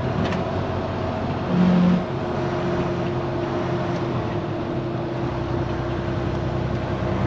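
Diesel engine of a day-cab semi truck running steadily, heard from inside the cab, with a brief louder tone about a second and a half in. The low rumble deepens about five seconds in.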